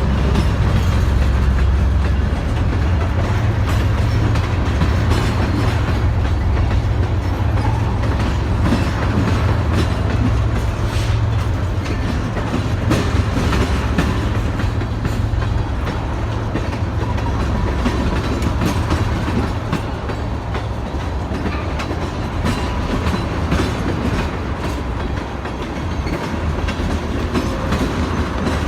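A train rolling past, its wheels clicking over the rail joints, with a heavy low engine rumble that slowly fades through the pass.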